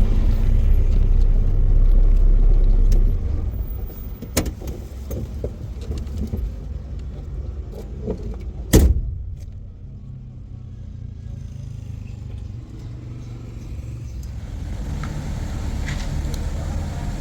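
A motor vehicle's engine running as a low rumble, loudest for the first three seconds and then steadier and lower. Scattered clicks and knocks run through it, with one sharp bang about nine seconds in.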